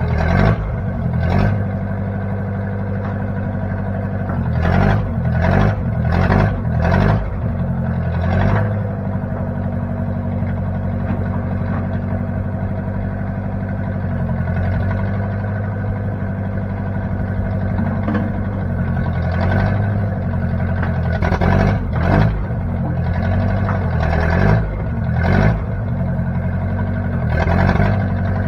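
Engine of a 1960 Case 540 tractor-loader-backhoe running steadily, with short louder bursts that come in clusters several times, around a quarter of the way in, again past the middle and near the end.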